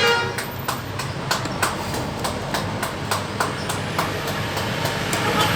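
Evenly spaced sharp clicks, about three a second, over a low steady hum.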